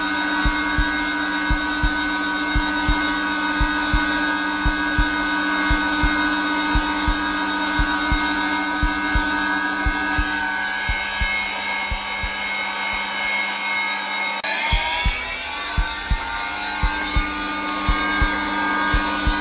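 Zelmer vacuum cleaner running steadily on its lowest setting, a motor whine over airflow noise, with a heartbeat thumping regularly underneath. About three-quarters of the way through, the heartbeat breaks off for a moment and the vacuum's whine rises in pitch.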